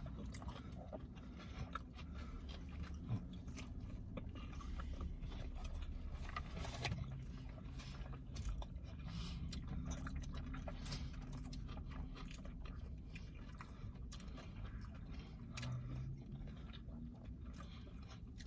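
People chewing mouthfuls of smash burger, with faint wet mouth sounds and small clicks. Under them is a low steady hum inside the car.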